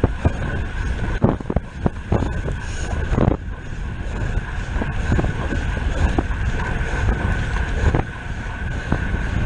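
Wind buffeting the microphone of a racing bicycle's camera at speed, with a steady high whir and scattered clicks from the bike.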